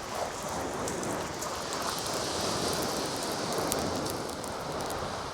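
Waves washing over the shingle, a steady hiss with fine crackling pebbles that swells a little midway.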